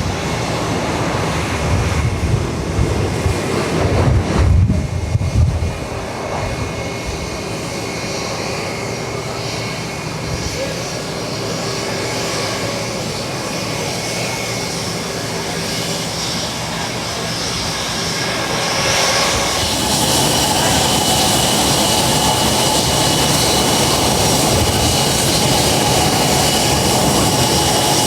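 Jet airliner engines running, a steady rush with a high whine that grows louder about two-thirds of the way through. Wind buffets the microphone in the first few seconds.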